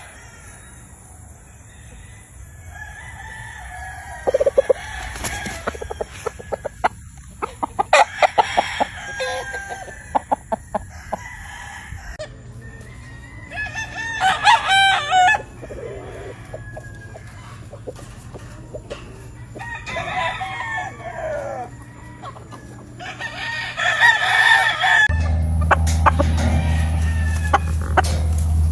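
Gamefowl roosters crowing several times, with clucking and short clicks between the crows. A steady low hum comes in near the end.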